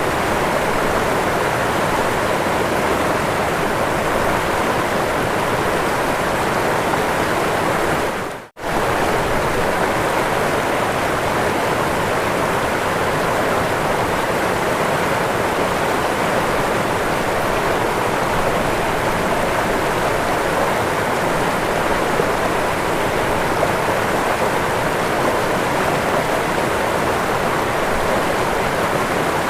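Waterfall: a steady rush of falling water. It cuts out for a split second about eight and a half seconds in, then carries on.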